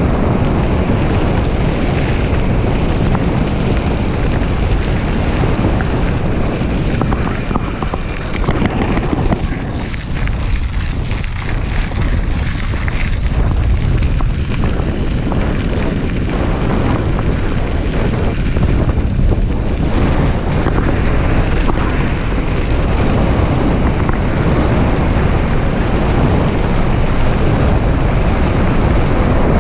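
Wind buffeting the microphone while riding a mountain bike, a loud steady rush that eases for several seconds in the middle, with a few sharp rattles.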